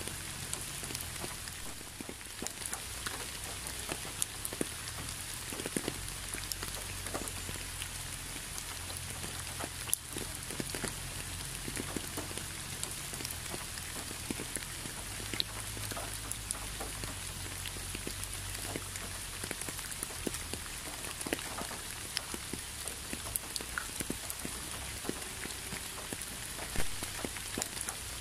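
Steady rain falling, with individual drops ticking sharply and irregularly over a continuous hiss, and a faint low rumble underneath.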